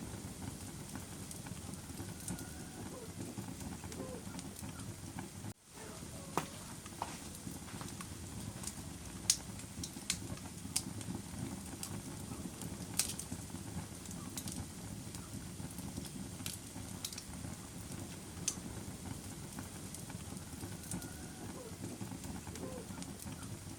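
Fire burning in a fireplace: a steady low rush of flames with scattered sharp crackles and pops at irregular intervals. The sound drops out briefly about five and a half seconds in.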